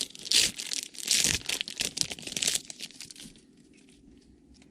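A trading-card pack wrapper being torn open and crinkled in the hands, a dense run of crackling that fades out about three seconds in.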